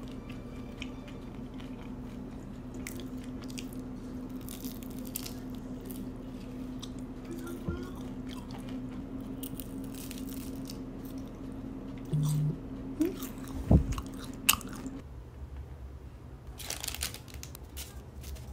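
Crisp bites and chewing of a flaky egg tart, with scattered small crunches and a few louder knocks about two-thirds of the way through.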